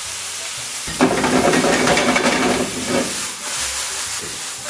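Shrimp and spinach sizzling in a hot stainless-steel sauté pan over a gas flame. The sizzle jumps sharply louder about a second in and eases back after a couple of seconds.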